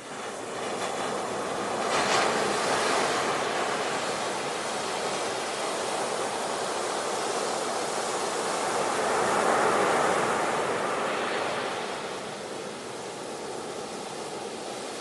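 Ocean waves breaking and washing on a shore, swelling louder about two seconds in and again near the middle, then easing off.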